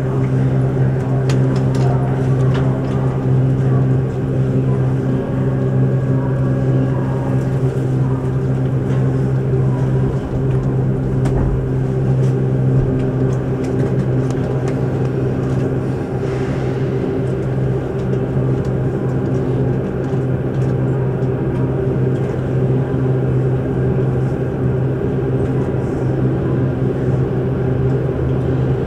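Steady low hum inside a Keihan 8000 series electric train car standing at a station, from the train's onboard running equipment, with a few faint clicks.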